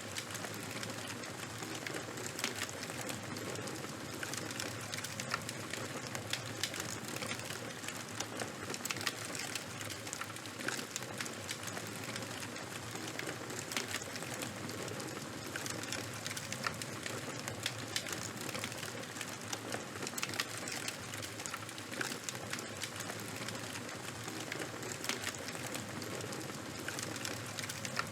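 Charcoal and wood fire crackling: frequent irregular sharp pops and snaps over a steady hiss.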